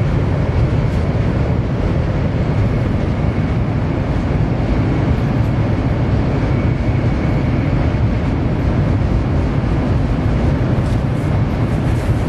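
700 Series Rail Star Shinkansen running, a loud, steady rumble heard inside the passenger car, with a faint high whine that comes and goes.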